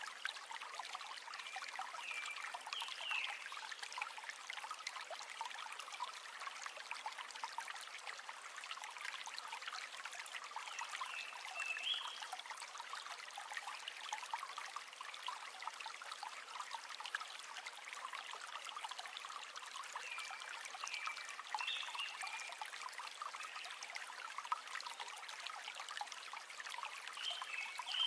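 River water running in a steady, crackly trickle and babble, with short high chirps about four times.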